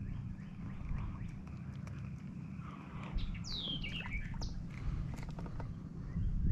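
A bird calls once about halfway through: a single high call sliding down in pitch, over a steady low rumble and a few faint clicks.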